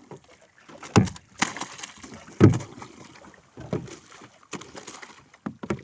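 Irregular heavy thuds and knocks on a fishing boat, about six in six seconds, the loudest about two and a half seconds in.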